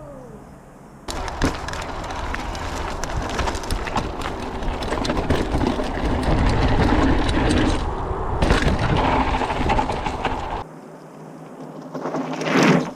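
Mountain bike being ridden over a dirt trail: a rushing of tyres and wind, with the bike clattering over rough ground. It starts about a second in, eases off near eleven seconds, and is followed by a brief rising whoosh near the end.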